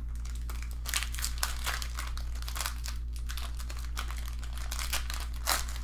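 Plastic trading-card pack wrappers crinkling and crackling as packs are torn open and handled: a dense run of short crackles over a steady low hum.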